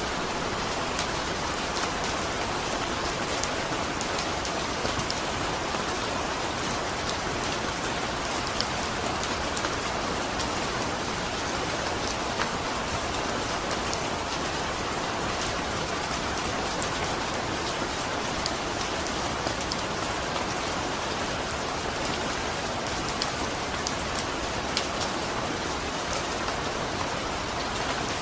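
Steady rain falling, an even hiss with many small drop ticks scattered throughout.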